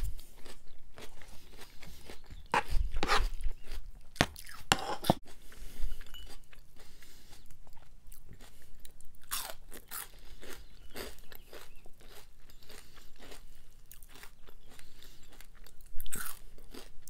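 Close-miked mouth sounds of eating salad and fried clam strips: chewing with repeated crunches, loudest a few seconds in and again near the end.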